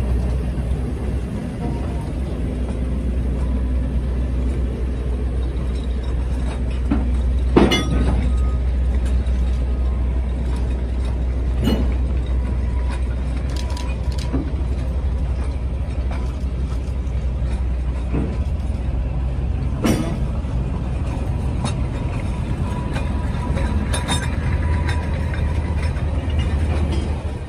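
Narrow-gauge logging train rolling along with a Shay steam locomotive hauling empty log flatcars, heard from on a flatcar: a steady low rumble with a clanking knock every few seconds, the loudest about eight seconds in.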